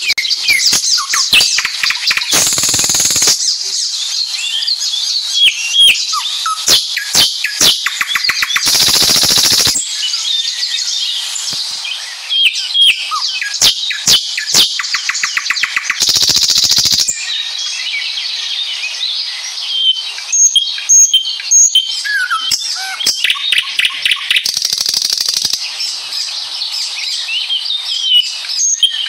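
Several songbirds chirping and calling together: many short, varied chirps and whistled notes overlapping throughout, broken by a few harsh, rasping bursts about a second long.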